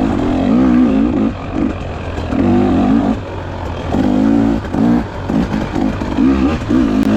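Dirt bike engine revving up and down in short bursts as it is ridden along a forest trail, the throttle opening and closing every second or so.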